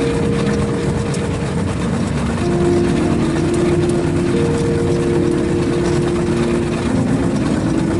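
Rail vehicle's engine running steadily while under way, with a continuous low rumble and several held droning tones that shift slightly in pitch.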